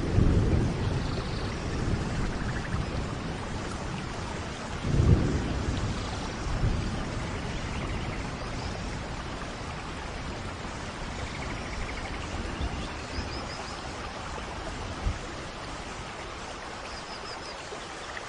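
Steady rain in a rainforest thunderstorm, with thunder rumbling at the start and a louder rumble about five seconds in, then fainter rumbles as the storm eases. A few faint high chirps come through the rain in the second half.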